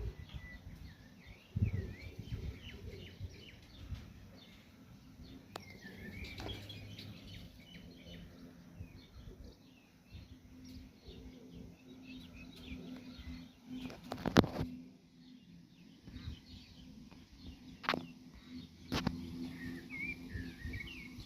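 Small birds chirping and twittering on and off, over a faint steady low hum. A few brief sharp noises break in, the loudest a little past the middle and two more near the end.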